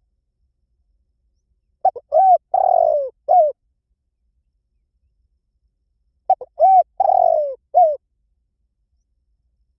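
Spotted dove cooing: two phrases of its song about four seconds apart, each a few short coos, one longer drawn-out coo and a short final note.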